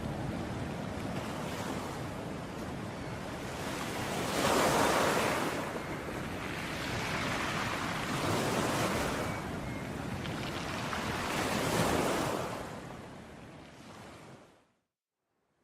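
Ocean waves breaking and washing up a beach, three louder surges about every four seconds. The surf fades out to silence near the end.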